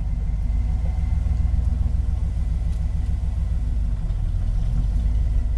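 1968 Ford F250's 390 cubic-inch big-block V8 running steadily at low revs, a low rumble.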